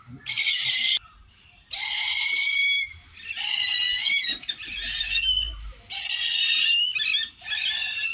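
Hornbill calling: a run of about six loud, harsh squealing calls, each roughly a second long, with short gaps between them.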